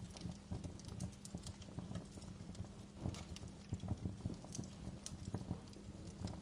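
Wood fire burning in a fireplace, crackling with irregular sharp pops of varying loudness over a low steady hum.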